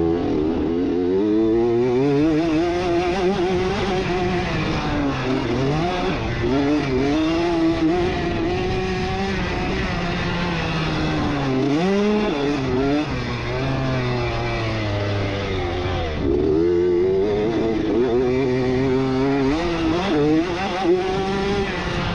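1989 Honda CR80 two-stroke engine revving hard under racing throttle, its pitch climbing and falling repeatedly through shifts and corners, dropping away briefly about twelve seconds and sixteen seconds in.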